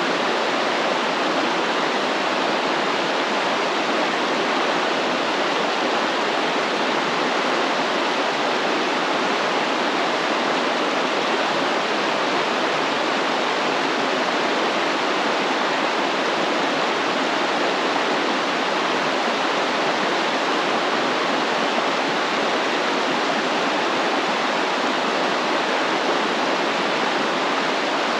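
Stream water flowing and splashing, a steady, even rush.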